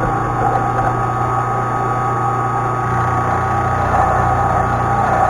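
Milling machine running steadily, its cutter taking a light cut across the side of a half-inch bar-stock fitting to mill a square on it.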